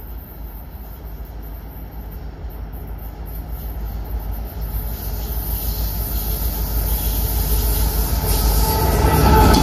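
Train approaching on the tracks, its rumble and rail noise growing steadily louder and loudest near the end.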